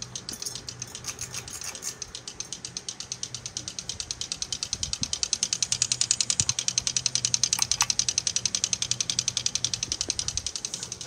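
SMC U42 ceiling fan running, its motor giving a steady low hum under a fast, even ticking. The ticking grows louder through the middle and eases again near the end.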